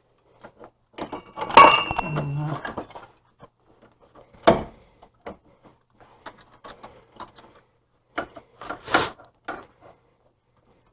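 Metal hand tools clanking and clinking during hub assembly work: a loud ringing metal clank about a second and a half in, a sharp knock near the middle, and a few more knocks near the end.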